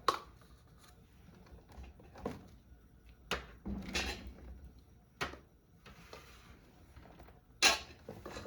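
A few separate knocks and short clatters of objects being handled and set down, about seven in all. The loudest is a sharp, hissy clatter near the end.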